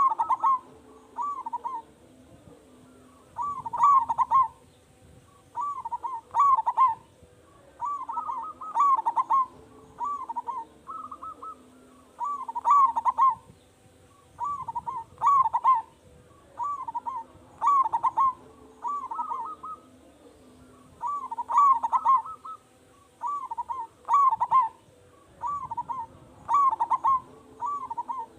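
Zebra dove (perkutut) cooing: short phrases of a few quick, bubbling coo notes, repeated about every one to two seconds.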